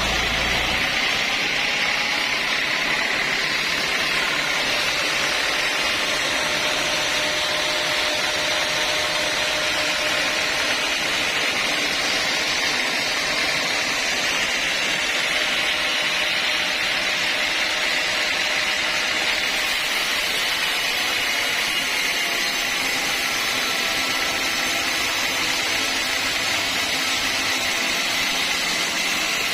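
A sawmill saw cutting through a mahogany log: a steady, even, high-pitched whine that runs without a break. A deep engine rumble fades out about a second in.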